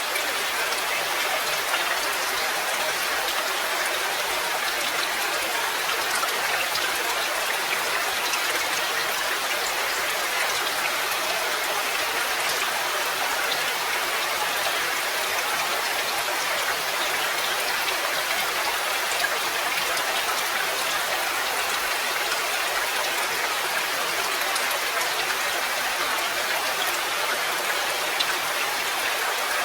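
Steady rain: an even, continuous hiss with faint scattered drop ticks.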